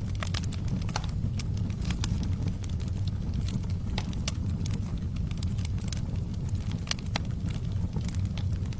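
Log fire burning with a steady low rumble and irregular sharp crackles and pops from the wood.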